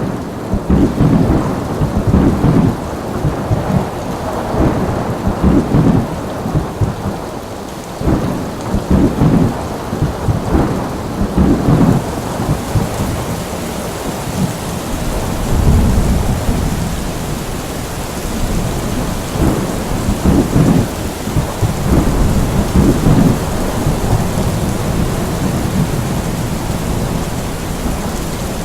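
Thunderstorm: steady heavy rain with thunder rumbling low and rolling in repeated swells every few seconds.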